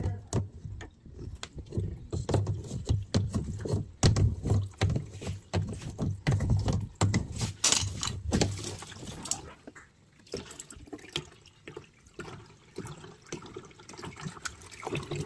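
Water splashing and running inside a washing machine, mixed with irregular knocks and clicks from handling, over a low hum. It is busiest in the first two-thirds and quieter near the end.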